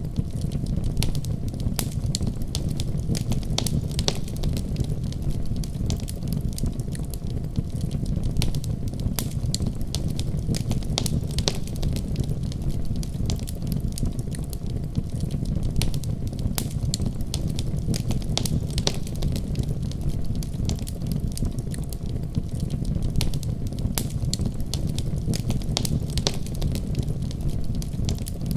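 Wood fire burning steadily, with a low roar and frequent sharp crackles and pops scattered throughout.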